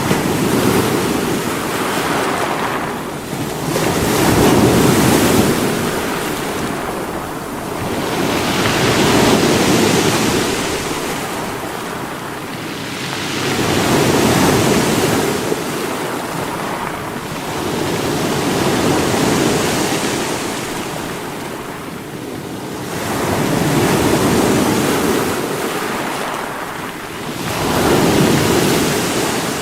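Sea waves breaking against rocks: a continuous surf wash that swells and ebbs about every four to five seconds, with six surges.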